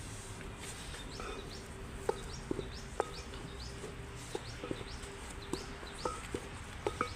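A bird calling a run of short rising chirps, about two a second, over scattered light clicks and knocks.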